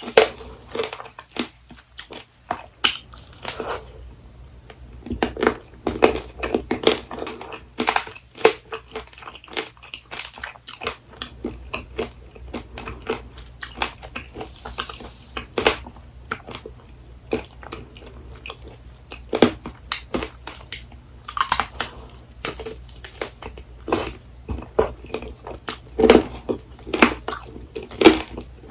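Close-miked biting and chewing of apricot tanghulu: the hard sugar-candy shell cracking and crunching between the teeth in quick, irregular crunches, with a few louder bites.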